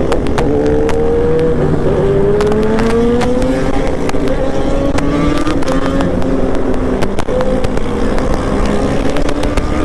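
Superbike engine running at speed, its pitch slowly rising and then holding steady, over a continuous low rumble.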